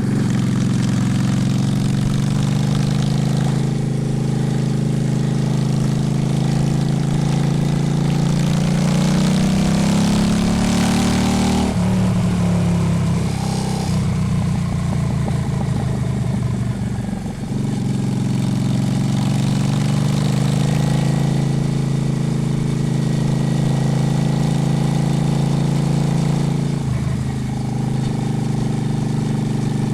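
Honda Shadow's V-twin engine running under a ride. It climbs in pitch from about seven seconds in, drops suddenly near twelve seconds, runs rougher for a few seconds, then settles back to a steady low running.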